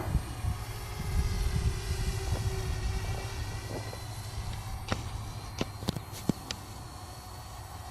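Parrot Bebop quadcopter's propellers whining in flight, a faint high hum of several tones over a steady low rumble of wind on the microphone. A few sharp clicks come about five to six and a half seconds in.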